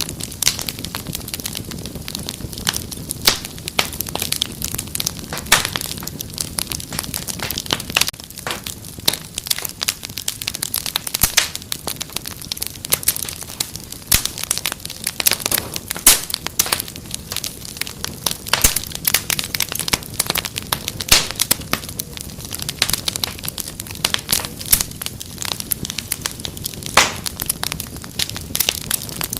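Wood fire crackling: dense, irregular snaps and pops over a steady low hiss of burning.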